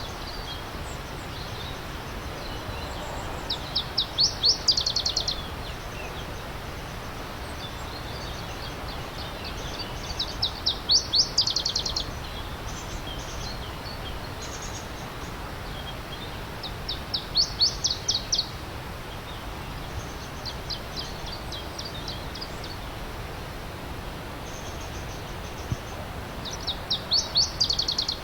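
A songbird singing short phrases of rapid, high notes that swell in loudness, a phrase about every six to seven seconds, with fainter bird song between. Under it runs a steady rush of stream water.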